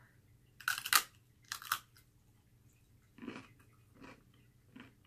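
Biting into a plain fried pork rind: two loud crunches about a second in, then quieter chewing with three softer crunches.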